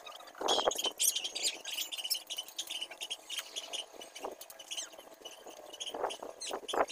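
Small birds chirping and twittering in short repeated notes, with a few rustles and scuffs of someone moving on soil, the loudest about half a second in and again near the end.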